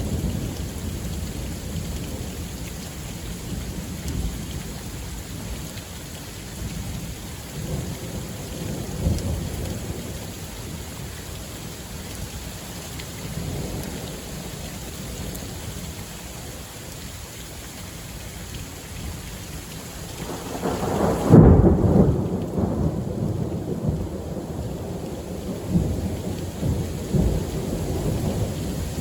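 Thunderstorm at night: rain falling with thunder rumbling on and off, and one much louder peal of thunder about three-quarters of the way through.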